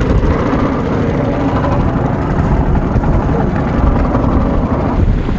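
Small boat's engine running steadily underway.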